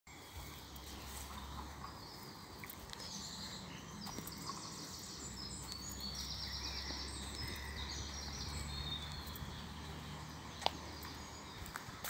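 Several birds singing in spring woodland, with repeated short chirps and trills, over a low rumble and the odd soft click, and one sharp tap near the end.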